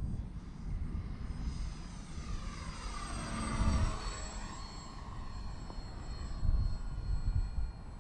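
Electric motor and propeller of an E-flite Valiant RC airplane whining as it flies past. Its pitch rises as it approaches and drops as it passes, about three to four seconds in, then holds steady. Low wind rumble on the microphone underneath.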